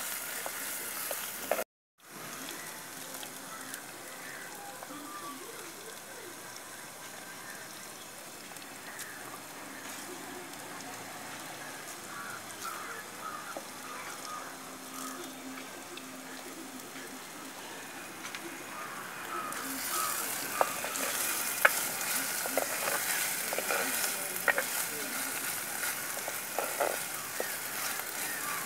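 Onion, ginger, garlic and cinnamon sizzling in hot oil in a clay pot, with curry leaves and pandan leaves stirred in. The sizzle drops out for a moment near the start. About two-thirds of the way through it grows louder, with scattered clicks as the spoon stirs against the pot.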